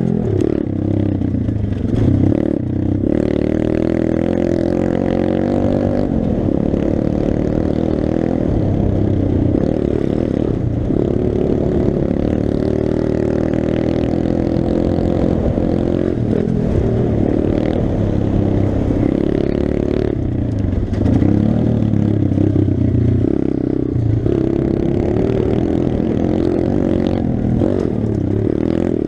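Pit bike's single-cylinder engine running under load while ridden, its pitch rising and falling over and over as the throttle is opened and closed, with rattling from the bike.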